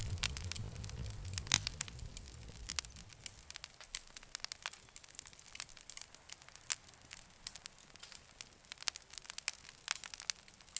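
Wood fire crackling, with irregular sharp pops and snaps. A low rumble underneath fades away over the first few seconds, leaving only the crackles.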